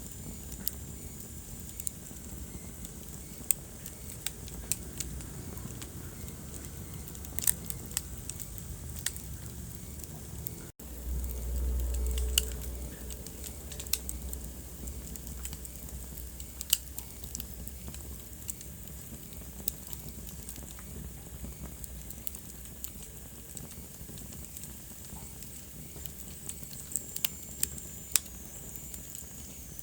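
Wood fire burning in a fireplace: a steady soft hiss with irregular sharp crackles and pops. About eleven seconds in the sound cuts out for an instant, then a deeper rumble of the flames lasts a few seconds.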